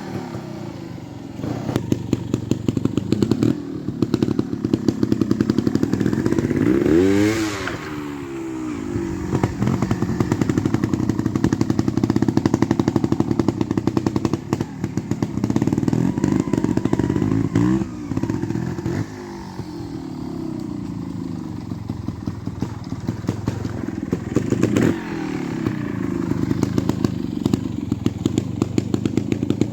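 Beta Evo trials motorcycle engine running at low revs, with short throttle blips that send the pitch up and back down three times, the biggest about seven seconds in.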